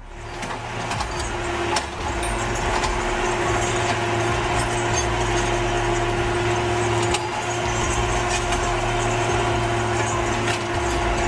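A vehicle engine running steadily, with a constant low hum and a dense layer of mechanical and road noise over it.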